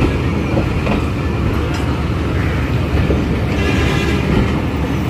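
Train running along the track with a steady, heavy rumble and faint clicks from the wheels.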